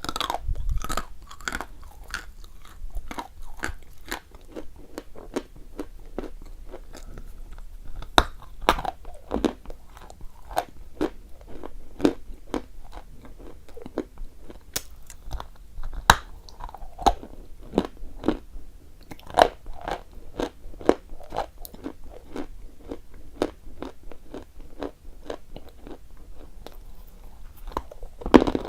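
A person biting and chewing chalk close to the microphone, with sharp crunches about twice a second.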